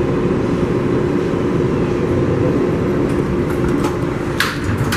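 Steady noise inside an R188 subway car on the 7 line, with a low steady hum running through it; a few short sharp sounds come near the end.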